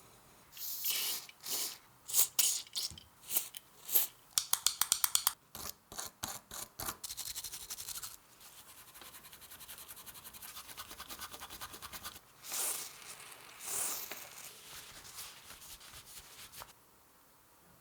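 A stiff brush scrubbing a part by hand in short, dry strokes. Single strokes come first, then a quick run of them, then a fast steady train of strokes in the middle, and a few longer swipes before it stops near the end.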